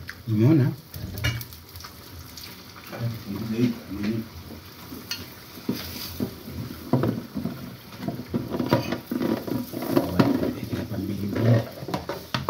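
Kitchen cooking sounds: food frying in pans on a gas stove, with repeated clinks and knocks of utensils and a plastic food container being handled, the knocks coming thickest in the second half.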